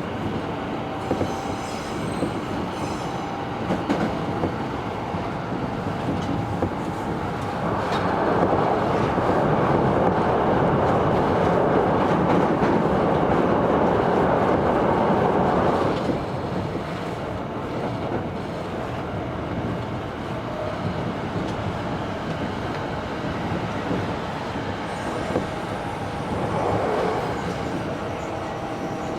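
Running noise of a Tobu 70000 series electric train heard from inside the car, with clicks from the rails. It grows louder for about eight seconds in the middle, then settles back, and swells briefly near the end.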